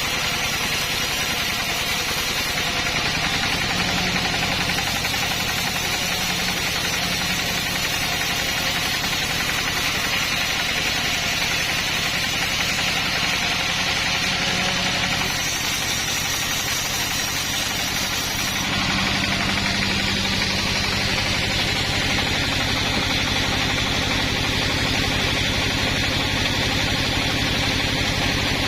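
Saw engine running steadily, its note shifting slightly about halfway through and again a few seconds later.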